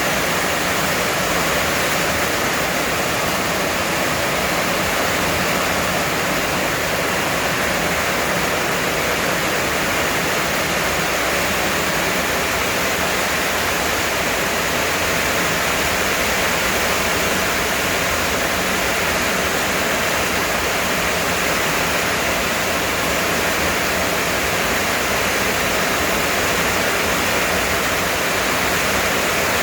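Heavy rain falling steadily: a loud, even hiss of downpour that does not change.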